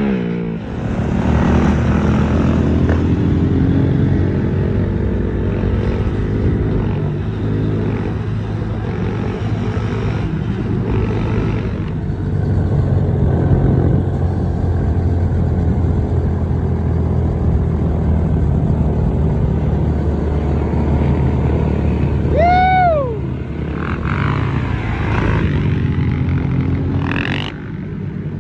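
Small motorcycle engines running and revving, with the pitch gliding up and down. About three-quarters of the way through there is a short squeal that rises and then falls.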